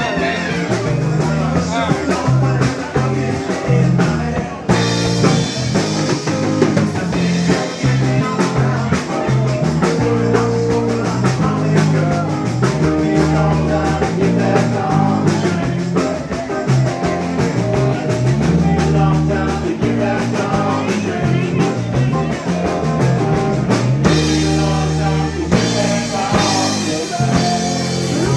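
Live rock band jamming: drum kit, bass and electric guitar playing together, loud and steady.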